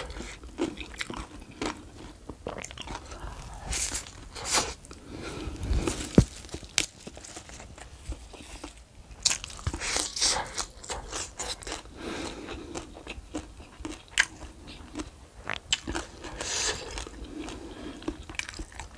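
A person chewing and biting fried chicken and raw leafy vegetables close to the microphone, with irregular crisp crunches.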